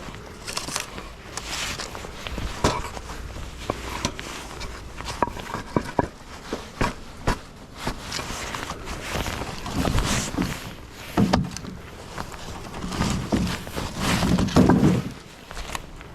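Footsteps and the knocks of split firewood pieces being handled and stacked: many separate sharp knocks, with heavier thumps clustering in the last few seconds.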